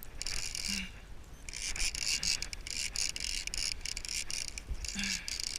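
Fishing reel's drag buzzing as a hooked bluefish pulls line off the spool: a high, fast-clicking run shortly after the start, a longer run of about two seconds in the middle, and another near the end.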